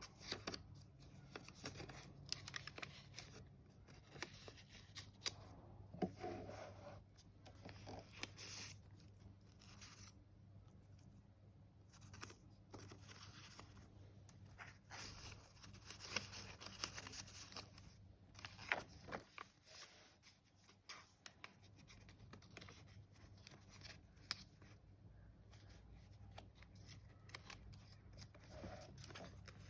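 Faint, irregular rustling and crackling of a handmade paper junk journal's pages as they are turned and handled.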